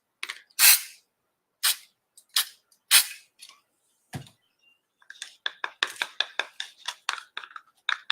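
Several short hisses of silicone spray from an aerosol can, then rapid clicking and tapping of paint being stirred in a cup, several taps a second.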